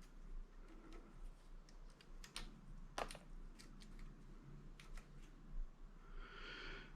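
Scattered sharp clicks and snips of a hand cutter at work on an electric motor's copper windings, cutting the tie strings that bind them. Two louder snaps come about two and a half and three seconds in, over a faint low hum.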